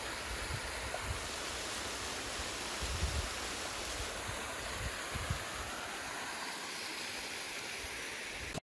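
Steady rushing noise of running water, with occasional low rumbles on the microphone; it cuts off abruptly just before the end.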